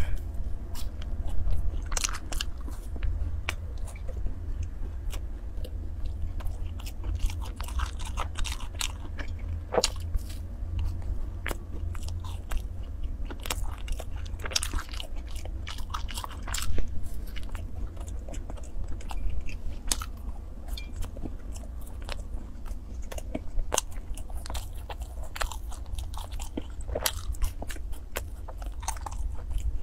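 Close-up eating of sachima, a crumbly raisin fried-dough bar: bites and chewing with many small sharp crackles throughout, over a steady low hum.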